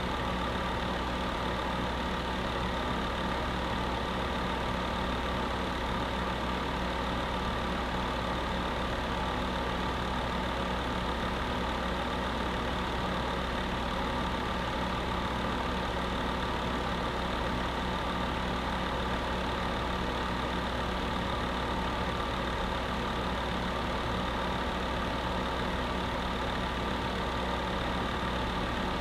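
Electric space heater with its fan running: a steady, unchanging whirring hum with a low drone.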